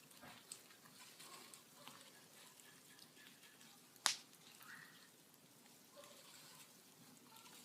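Bonfire crackling faintly with scattered small pops, and one loud sharp pop about four seconds in.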